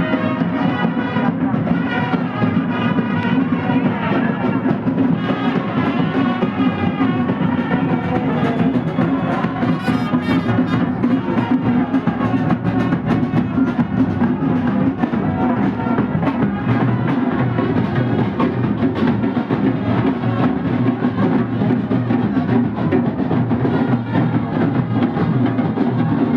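Traditional Himachali festival music: drums beaten in a fast, dense rhythm while a wind instrument plays a wavering melody above them, steady and loud throughout.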